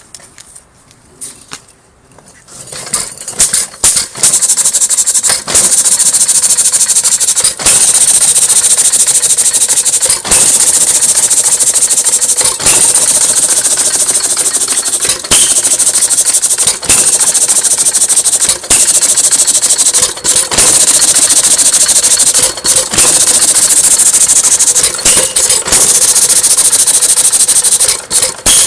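Antique 1 hp Woodpecker engine from around 1915 starting about two and a half seconds in and then running, loud and harsh with a strong hiss, broken by brief dips every two seconds or so.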